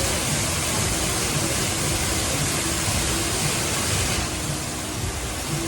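Show-fountain water jets spraying with a steady hiss, which eases off a little about four seconds in.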